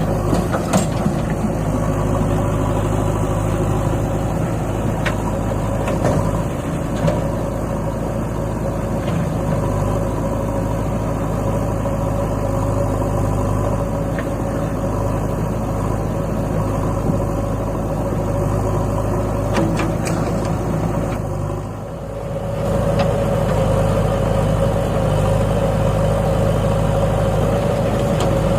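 Diesel tractor engine running steadily, with a brief dip in level about three-quarters of the way through.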